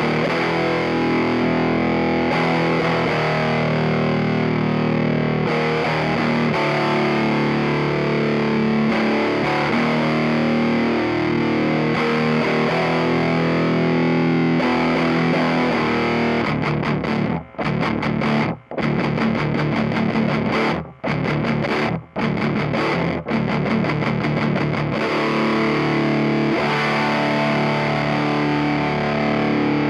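Electric guitar played through a Mooer Black Secret distortion pedal, a clone of the Proco Rat, giving gritty distorted chords that ring on. Around the middle the playing turns choppy, with several chords cut off short by brief silences, before the held chords return.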